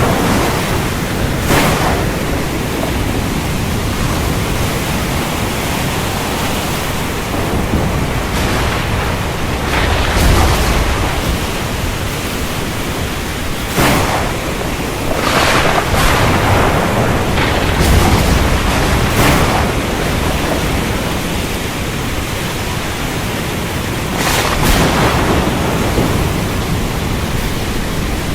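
Thunderstorm: heavy rain falls steadily, with several sharp thunder cracks and a couple of low rumbles scattered through.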